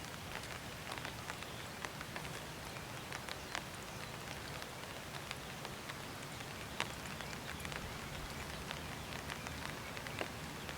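Light rain falling: a steady hiss with scattered sharp drop ticks at uneven intervals.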